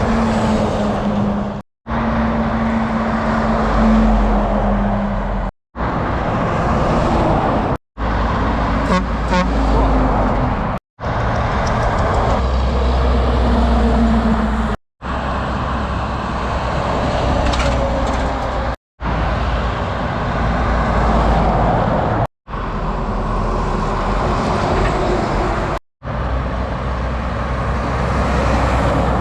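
A series of short roadside recordings of truck and road traffic, each a few seconds long and ending in a hard cut. Several of them carry a low, steady vehicle horn lasting a second or more.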